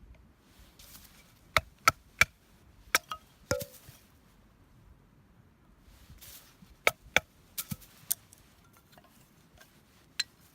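About a dozen sharp knocks and clicks in irregular clusters: three quick ones a little over a second in, three more around three seconds in, another run around seven to eight seconds in, and a single one near the end.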